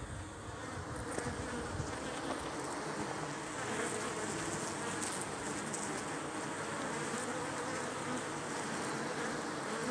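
Many honey bees buzzing close together at a hive entrance: a steady, wavering hum.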